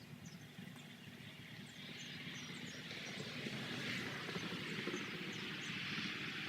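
Honeybees humming around an opened hive, growing steadily louder, with faint short high chirps above.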